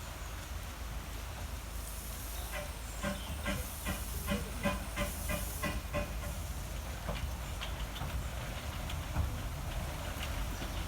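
Narrow-gauge steam train with steam hissing and a run of regular clicks, about three a second, through the middle few seconds, over a steady low rumble of wind on the microphone.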